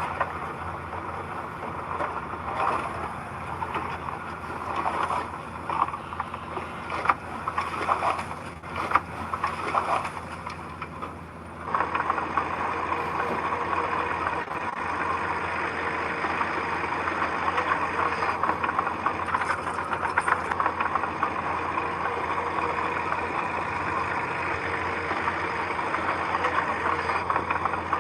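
Diesel engine of heavy construction machinery running, with irregular clanks and knocks over the first half. About twelve seconds in the sound changes abruptly to a steadier, busier engine drone.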